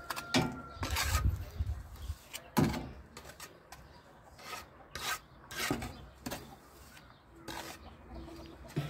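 Irregular scraping and rubbing strokes, about eight of them, with a heavier knock about a second in.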